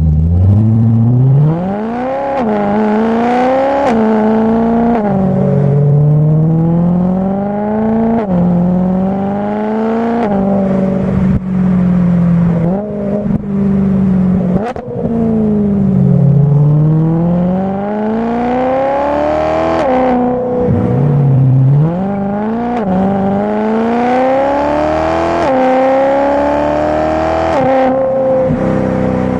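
BMW M3 engine through a modified exhaust, revving up and dropping back again and again, its pitch climbing and falling in waves every couple of seconds.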